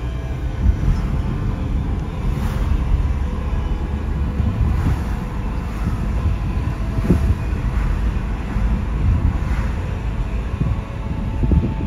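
Car interior road noise while driving on a rain-wet road: a steady low rumble of tyres and engine. A faint swish comes about every two seconds.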